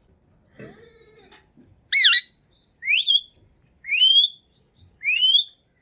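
Indian ringneck parakeet giving four loud, rising squawks about a second apart, after some faint low chatter.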